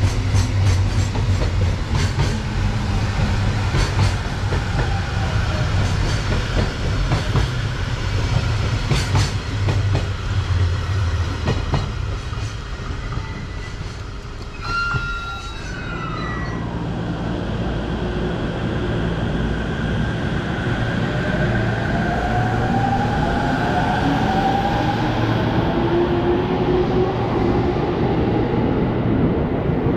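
Container freight wagons rolling past on electrified track: a steady rumble with regular wheel clicks over the rail joints. After a break about halfway, an electric train comes in with a rising motor whine, and an orange-striped commuter train runs past the platform near the end.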